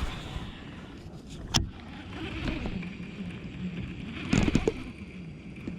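Handling noise aboard a fishing kayak: a sharp knock about a second and a half in and a cluster of bumps near the end, over a steady low rumble.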